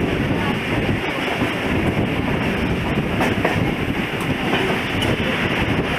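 Mumbai suburban local train, an electric multiple unit, running along the track, heard from the open doorway: a steady noise of wheels and coach on the rails, with a couple of sharper clicks about three seconds in.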